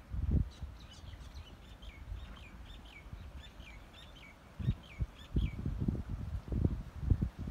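A small bird calling over and over, short down-slurred chirps about three a second for roughly five seconds. Low thuds of a horse's hooves at a walk come at the very start and again through the last few seconds.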